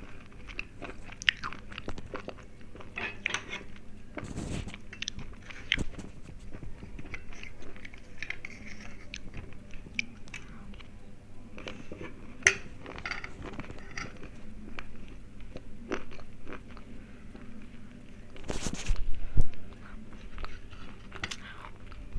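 Close-miked crunching and chewing of hard, thick slate pencils, a steady run of crisp cracks and grinding crunches as the chalky sticks are bitten and chewed. A louder noisy burst lasting about a second comes near the end.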